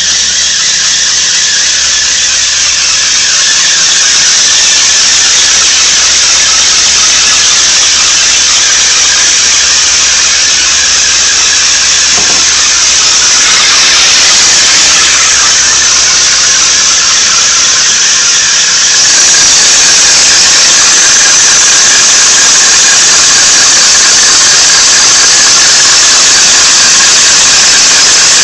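Loud, steady high-pitched squeal from the front right of a 1992 Nissan 300ZX with the engine running, the same no matter how high the engine revs; its cause is unknown to the owner. It grows louder a few seconds in and again about two-thirds of the way through.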